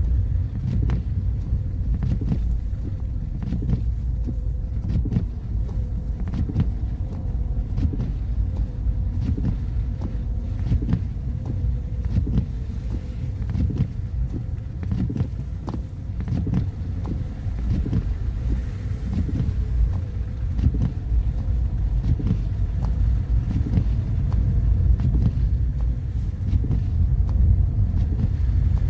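Car driving on a snowy road: a steady low rumble of engine and tyres, with frequent small clicks and knocks over it.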